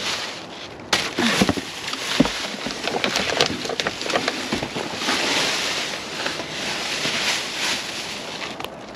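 Rummaging through discarded produce, with crackling plastic bags and knocks of boxes and fruit being handled, and a steadier rustling hiss in the second half.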